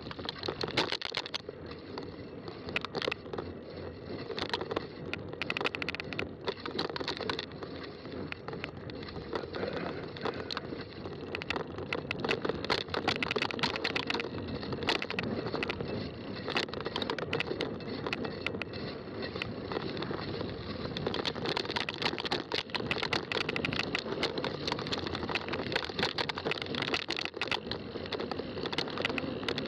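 Fat-tire bike riding over a rough trail: steady tyre noise on the ground with frequent clicks and rattles from the bike.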